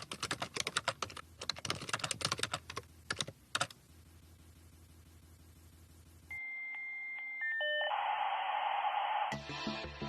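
Rapid, irregular clicking like typing on a computer keyboard for about four seconds. A few seconds later come electronic beep tones that step in pitch, then a short burst of hiss. A hip-hop beat starts near the end.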